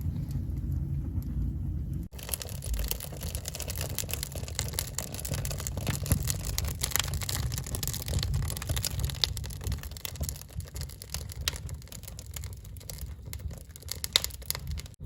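Wood fire burning in a fireplace firebox. A low rumble for about two seconds, then after a sudden cut a dense, steady crackling and popping of burning logs.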